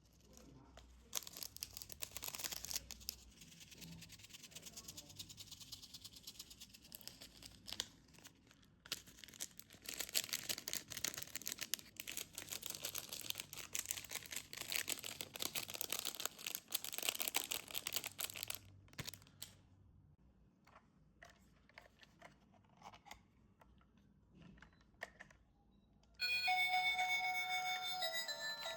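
Plastic and paper toy packaging being torn open and crinkled, a long stretch of crackling and ripping that thins out to a few light clicks. A beeping electronic tune starts loudly near the end.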